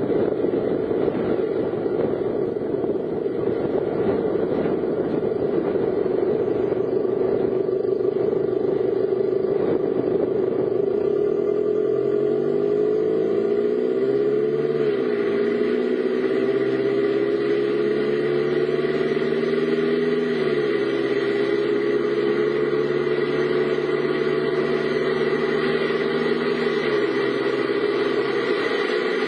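Car driving, heard from inside: steady road noise with the engine's hum, which rises about halfway through and eases off twice afterwards as the car speeds up and slows.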